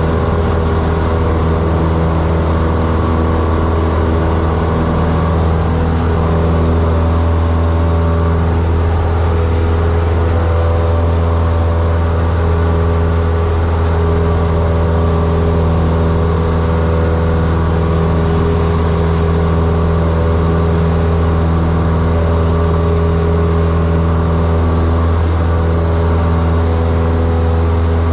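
Cessna 172's engine and propeller running steadily in flight, a constant low drone with no change in pitch.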